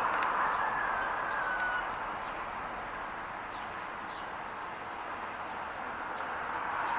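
Steady outdoor background noise, with a faint falling whistle about a second in and a few faint high chirps.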